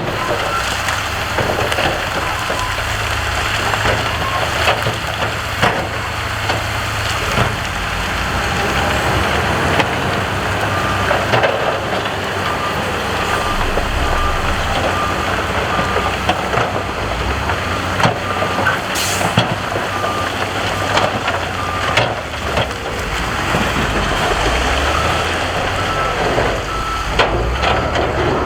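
Diesel engines of heavy earthmoving machinery running steadily under load, with scattered knocks and clatter of rock. From about a third of the way in, a reversing alarm beeps at a regular pace as a machine backs up.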